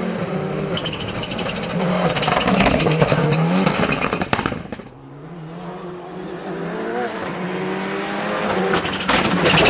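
A race car's engine at hard throttle, its pitch rising and falling through the gears, with a rapid crackle over it. The sound cuts off sharply about halfway, then builds again as the engine revs back up, crackling once more near the end.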